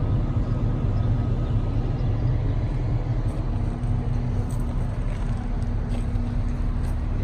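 Steady low rumble of an idling engine. A faint steady hum joins about three and a half seconds in.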